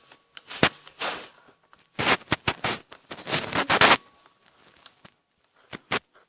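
Scratching strokes of a pen or pencil drawing on paper: a few short strokes, then a dense run of quick scratches for about two seconds, with a couple of sharp clicks near the end.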